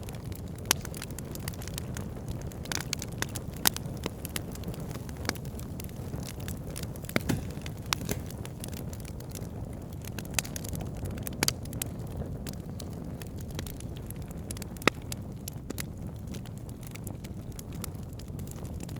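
Wood fire burning in a fireplace: a steady low rumble with irregular sharp crackles and pops throughout, a few of them louder snaps.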